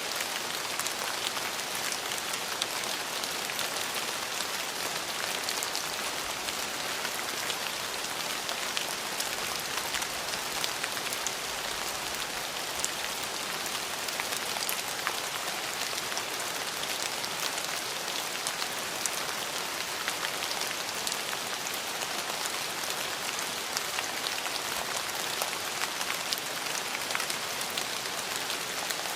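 Steady rain falling, an even hiss with the close patter of individual drops striking surfaces scattered throughout.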